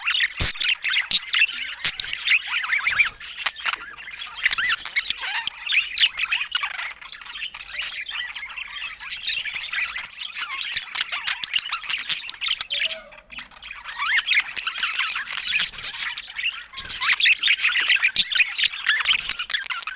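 A flock of budgerigars chattering, a dense continuous mix of warbles, chirps and squawks, with a brief lull about two-thirds of the way through.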